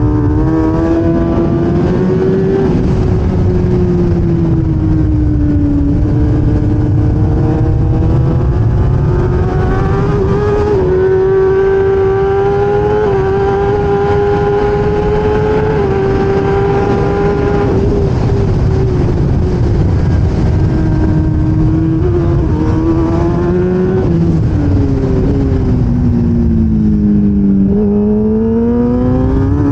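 Onboard sound of a 1000cc race motorcycle's engine at racing revs: the pitch climbs, holds high for several seconds with small steps, then falls away for a few seconds before climbing again near the end.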